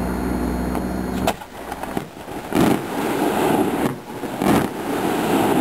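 Distant aerial firework shells bursting: a string of booms about a second apart, each trailing off in a rumble. A steady hum in the first second or so cuts off suddenly.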